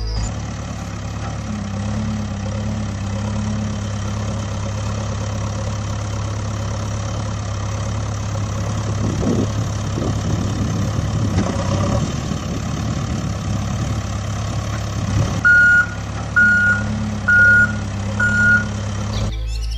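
A truck engine running steadily, with some rougher surges in the middle, then four reversing beeps about a second apart near the end.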